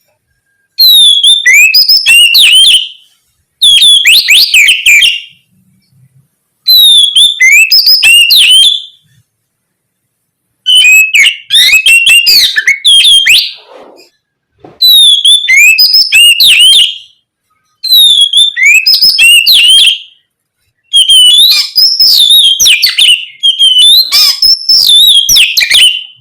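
Oriental magpie-robin (kacer) singing loudly in full song: about seven bursts of rapid, sliding whistled notes, each two to three seconds long, with short silent pauses between them.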